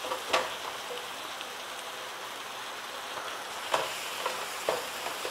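Onion and tomato masala frying in oil in a pan, sizzling steadily as the tomato cooks down over raised heat. A spoon knocks against the pan three times as it is stirred.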